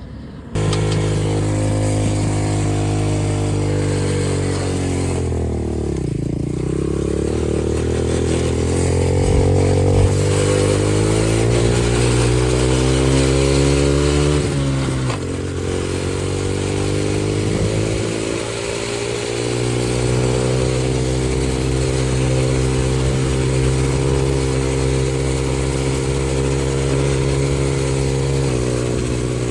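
X-Pro 125cc dirt bike's four-stroke single-cylinder engine running while riding, coming in suddenly about half a second in. The revs rise and fall with throttle and gear changes: a dip about five seconds in, a long climb, a sharp drop about fifteen seconds in, then a climb to a fairly steady pull.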